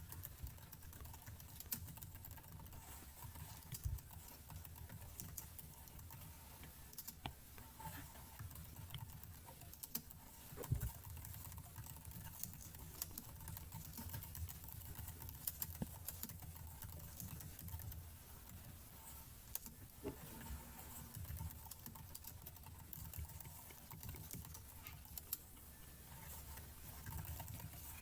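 Computer keyboard keys clicking in irregular, scattered taps and short runs, over a low steady hum.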